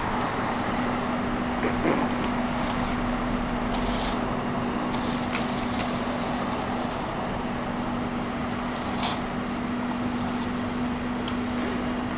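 Vacuum cleaner running steadily on stone paving: a constant motor hum over a noisy hiss, with a few short clicks scattered through.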